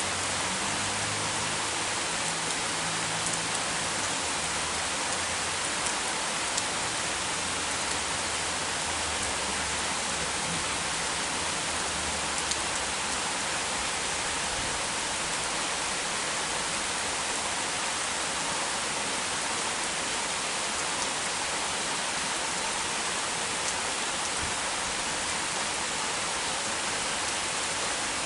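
Heavy rain falling steadily, a dense even hiss of rain on surfaces. A faint low rumble sits under it through the first half, then fades.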